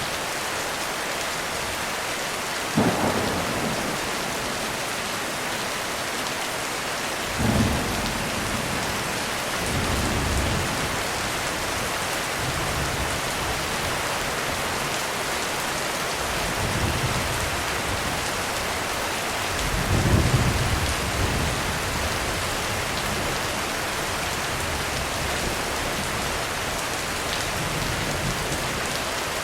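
Heavy rain falling on a roof as a steady hiss. Thunder cracks about three seconds and seven seconds in, then softer rumbles, and the loudest rolling rumble about two-thirds of the way through.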